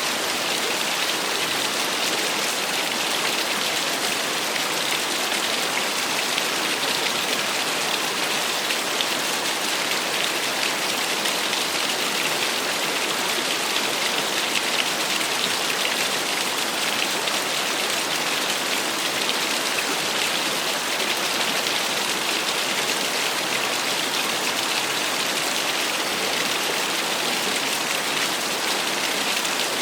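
Small waterfall splashing steadily: an even, bright rush of falling water with little low rumble.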